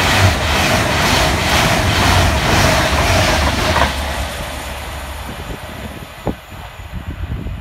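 Avanti West Coast Class 390 Pendolino electric train passing through at speed: a loud rush of wheels and air with a regular beat as the bogies go by. About four seconds in the last coach clears and the noise drops suddenly, then fades as the train runs away.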